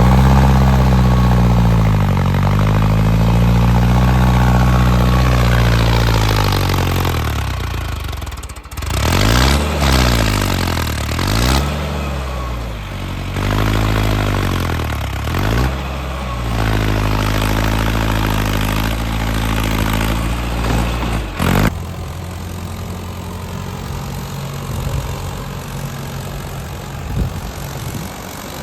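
Diesel tractor engine revving, its pitch rising and falling in repeated surges, then settling to a steady idle about 22 seconds in.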